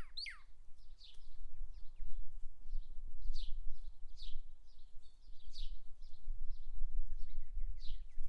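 Small songbirds at a water spigot chirping over and over, about two chirps a second, with a quick falling call at the start and a fast trill of short notes near the end. A steady low rumble runs underneath.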